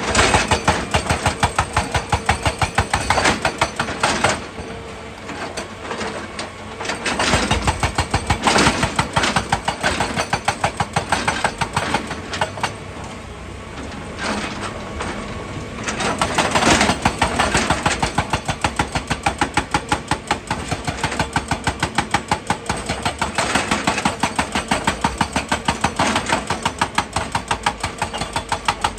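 Excavator's diesel engine running with a fast, steady pulse, swelling louder and easing back several times as it works under load.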